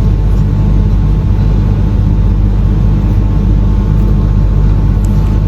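Steady low mechanical rumble with a hum, unchanging throughout, like an engine or machine running.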